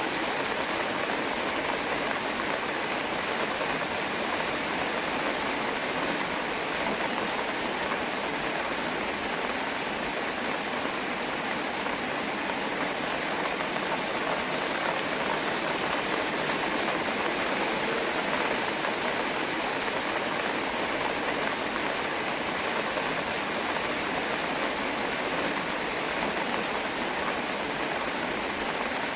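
Steady rain falling, a dense even hiss that holds level throughout with no single drops standing out.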